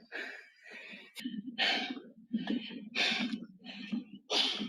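Heavy breathing: loud breathy gasps repeating roughly once every second and a half.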